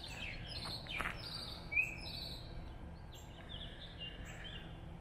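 Songbirds chirping and calling, a run of short high notes and warbles, the loudest chirp just under two seconds in, over a steady low hum.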